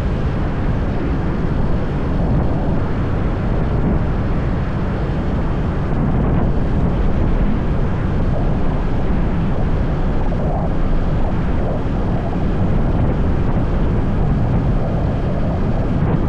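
Motorbike ride: steady wind rush buffeting the microphone over the engine and road noise.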